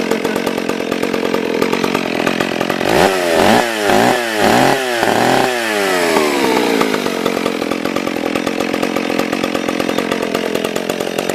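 McCulloch chainsaw with a 24-inch bar running after a cold start from three months of storage. It idles, is revved up and down about four times in quick succession a few seconds in, then winds back down to a steady idle.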